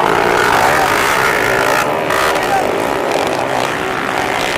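Several four-valve underbone motorcycle engines running hard together at high revs, a dense, steady mix of overlapping engine notes.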